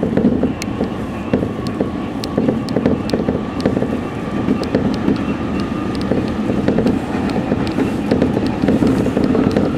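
Electric commuter train running at speed, heard from inside the driver's cab: a steady rumble of wheels on rail with frequent light clicks and a faint steady whine.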